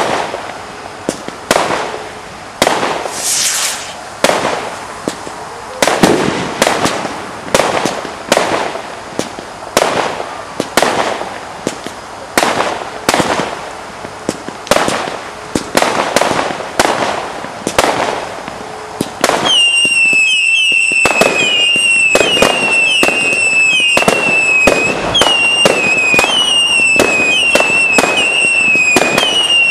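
Category 2 and 3 consumer aerial fireworks going off in a rapid string of bangs, more than one a second, each followed by a brief crackling decay. About two-thirds of the way through it becomes louder and continuous, with a dense run of shrill whistles that each dip in pitch over steady popping.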